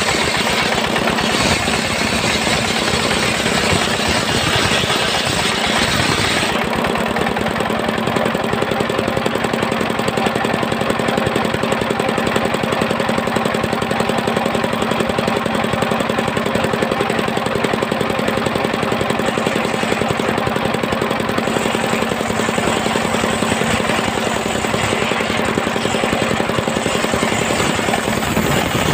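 Engine-driven homemade circular sawmill running steadily, its engine holding a constant note. A bright hiss in the upper range drops away about six and a half seconds in.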